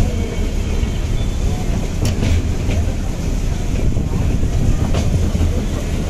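Meter-gauge passenger train running on the track: a steady low rumble with a few sharp clicks about two and five seconds in.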